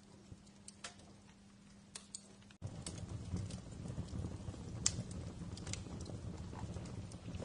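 Wood fire crackling with scattered sharp pops. About two and a half seconds in, the sound jumps abruptly louder, with a low rumble of burning under denser crackling.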